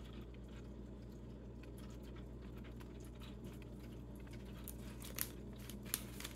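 Quiet closed-mouth chewing of a soft cookie with a brownie filling: faint soft ticks and squishes over a low steady hum, with a couple of slightly sharper clicks near the end.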